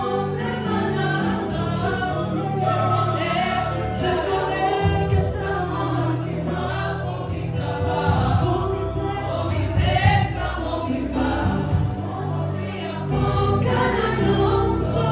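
Gospel worship music: a choir or congregation singing over a steady instrumental accompaniment.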